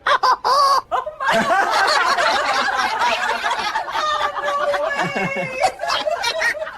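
Several people laughing hard together at once, in overlapping chuckles and snickers.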